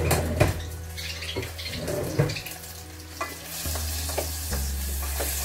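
Butter melting in a saucepan and diced chicken frying in a pan on a gas hob, with a steady sizzle that grows louder about three and a half seconds in, over a low steady hum. A wooden spoon stirs the butter, and a few knocks of utensils come in the first couple of seconds.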